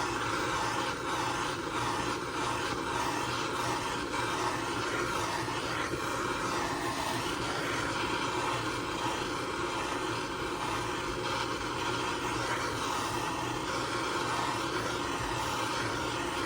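Heat gun running with a steady whir and blowing while it heats the saw's crankcase so the new bearings will drop in.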